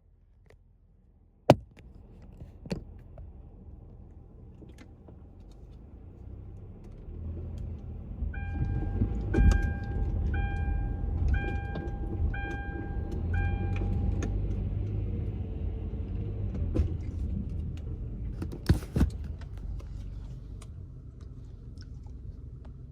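Car running with a low rumble that builds up, after a couple of sharp clicks. A repeating electronic beep sounds about once a second, six times, over a steady tone, and two sharp knocks follow near the end.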